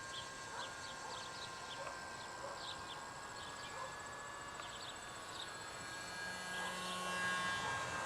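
Birds chirping in many short calls, over a steady thin whine from the Cox Sky Ranger's small electric motor in flight.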